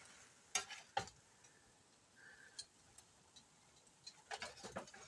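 Faint, scattered clicks and light scrapes of kitchen utensils on cookware, a few separate ticks followed by a short cluster near the end.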